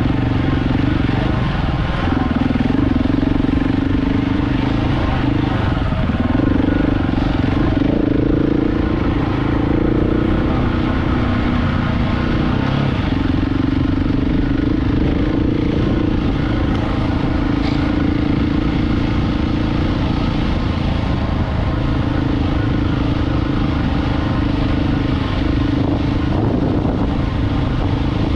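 KTM 690 Enduro's single-cylinder engine running while the bike is ridden, its note stepping up and down every few seconds with throttle and gear changes, over a low wind rumble.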